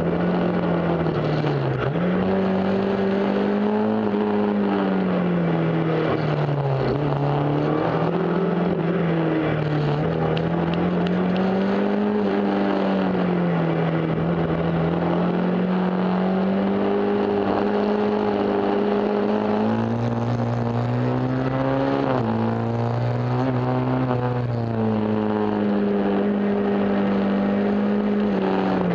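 Fiat 133 folk-race car's engine at racing pace, heard from inside the cabin, its pitch climbing and dropping over and over as the car accelerates and lifts through the corners. A second, lower engine note runs alongside for a few seconds about two-thirds through.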